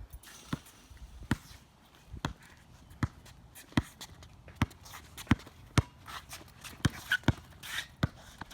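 A basketball being dribbled, bouncing off the court in a steady rhythm of about one bounce every three-quarters of a second.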